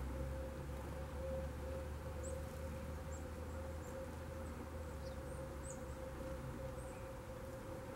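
Faint, very high, short chirping calls of small songbirds, about eight scattered notes through the middle, over a steady low rumble with a constant hum.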